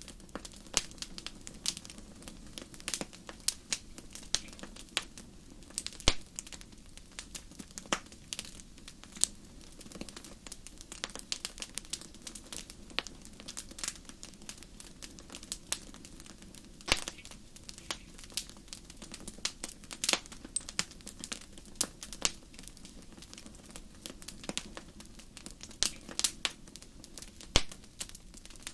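Fire crackling in a fireplace: irregular sharp pops and snaps, some much louder than others, over a steady low rumble of the flames.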